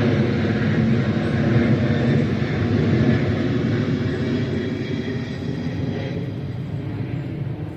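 A steady low engine rumble, fading slowly over the last few seconds as it passes.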